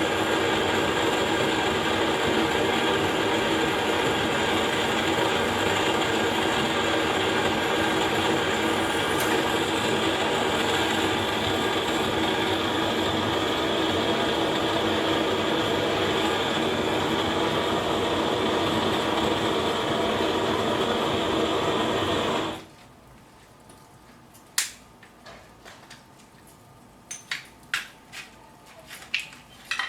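Handheld gas burner running with a steady loud roar, shut off abruptly about three-quarters of the way through. Scattered sharp clicks and crackles follow from the fire and the small metal stove.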